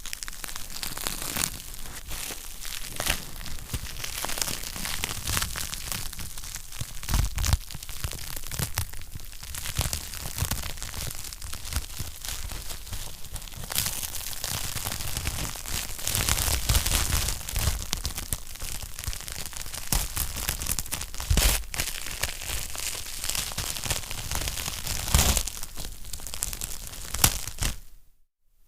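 Wood fire crackling steadily in a fireplace, with frequent sharp pops and snaps of burning logs. The sound cuts out for a moment near the end.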